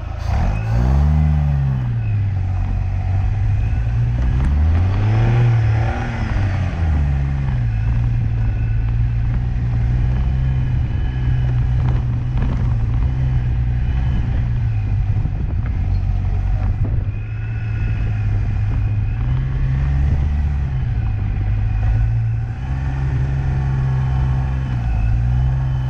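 Car engine being driven under load, its revs rising and falling several times: about a second in, around five seconds, and twice near the end.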